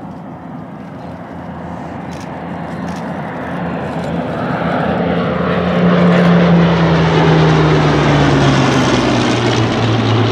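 A pair of Hawker Hurricanes' Rolls-Royce Merlin V12 piston engines with propellers, growing louder as they approach, then sweeping past with the engine note dropping in pitch over the last few seconds.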